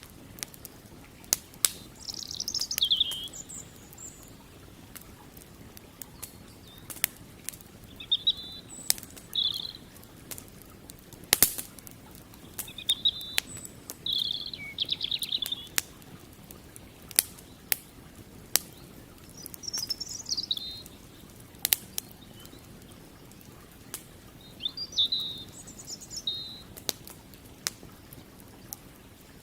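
Campfire crackling, with sharp wood pops every second or two, while small birds chirp in short calls, some falling in pitch, several times over a faint steady low rush.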